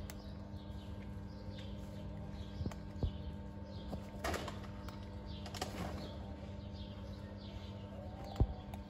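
Small birds chirping over and over, short falling calls every half second or so, over a steady low hum. Two louder, noisier sounds come in the middle, and a single sharp knock near the end.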